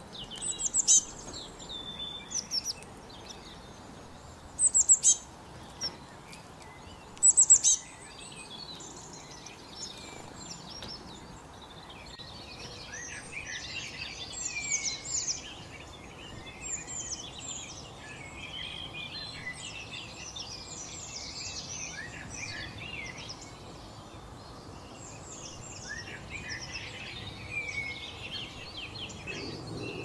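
Wild birds singing and calling: a few loud, high chirps in the first eight seconds, then a dense chorus of overlapping songs from about twelve seconds in, over a steady background noise.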